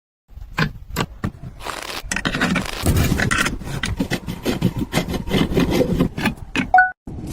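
Irregular knocks and scraping, as of wood being worked by hand, with a short squeak near the end.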